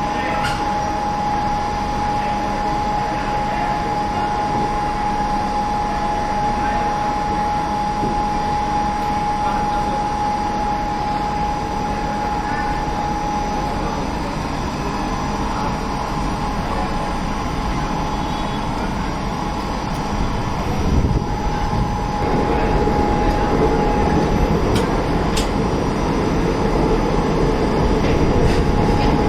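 Moving passenger train heard from inside the coach: steady running noise with a thin, steady high tone over it. About three-quarters of the way through the noise grows louder and fuller.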